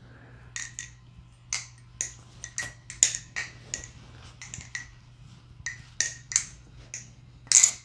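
MachineWise Mayrn Lite balisong being flipped: its raw aluminum handles and blade click and clack against each other in an irregular run of sharp clicks, the loudest near the end.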